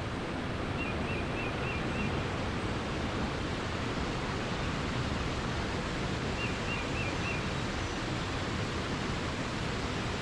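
Steady rushing water. A bird twice gives a short phrase of four or five quick notes, about a second in and again about six and a half seconds in.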